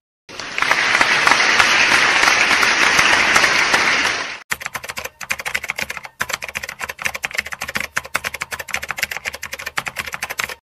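About four seconds of applause, then a typing sound effect of rapid keyboard key clicks, several a second, running for about six seconds.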